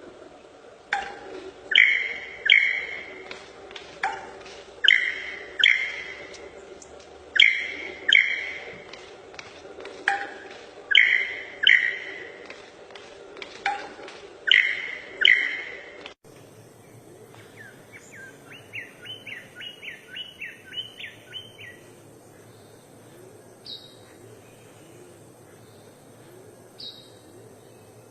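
A songbird calling: loud chirps in pairs, repeated about every three seconds. After an abrupt cut comes a quick run of about a dozen short notes, then two single higher notes several seconds apart.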